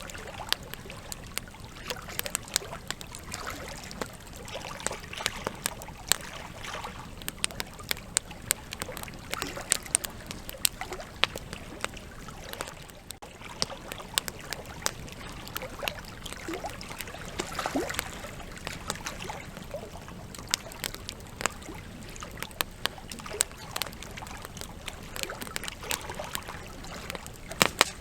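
Campfire burning, logs crackling and popping irregularly over a steady hiss of flame.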